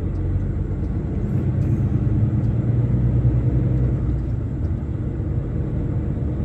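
Truck engine and road rumble heard inside the cab while driving, a steady low drone that swells slightly for a couple of seconds in the middle and then settles.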